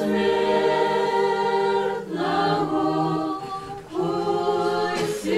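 Church choir singing Orthodox liturgical chant a cappella, in long held chords that change about every two seconds.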